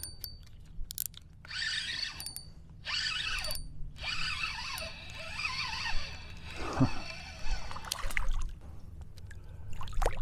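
Water splashing and trickling close by in irregular spurts, over a steady low rumble.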